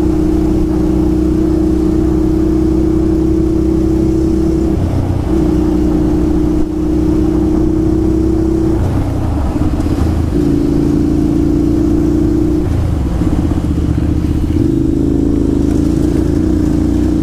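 Motorcycle engine running under way, heard from on the bike, with a steady drone that changes pitch several times as the throttle and gears change.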